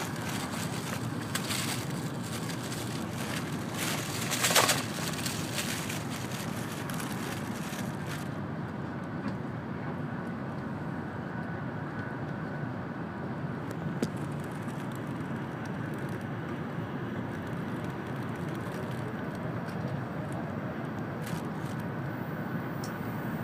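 Steady running noise heard inside a passenger car of an N700-series Shinkansen at speed: a low rumble with hiss. The hiss is stronger for the first several seconds, with a brief louder crackle about four and a half seconds in, then softens.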